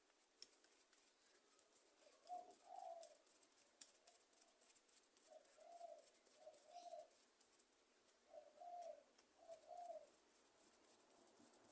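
Near silence with faint small clicks, typical of a screwdriver tightening the small screws of a carburettor cover. Over this, a bird coos faintly in the background, in short calls that come in pairs several times.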